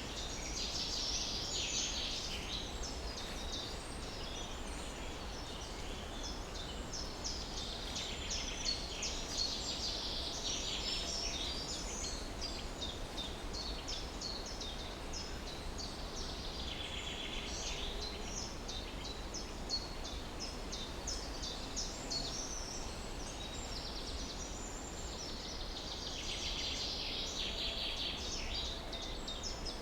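Many small birds chirping and singing at once, a dawn chorus of quick overlapping chirps and trills that thicken into denser bouts now and then, over a steady low rumble.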